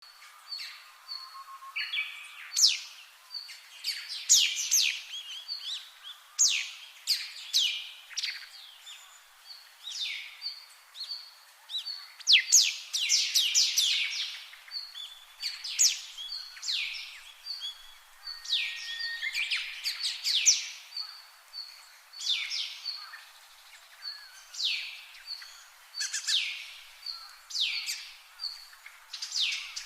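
Brown-eared bulbuls calling: loud, steeply downward-sweeping high calls come one after another, with a short high peep repeating about once a second.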